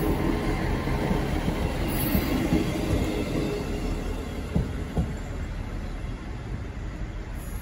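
GWR Class 158 diesel multiple unit running past and away, its engine and wheel rumble fading as it goes. Two sharp clicks come about halfway through.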